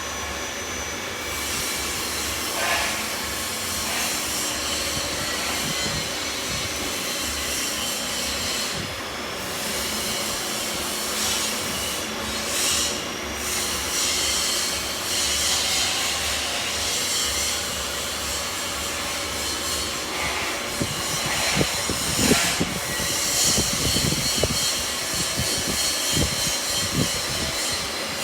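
Electric granite cutting saw running its circular blade through stone: a steady grinding noise that turns rougher and more uneven in the last several seconds.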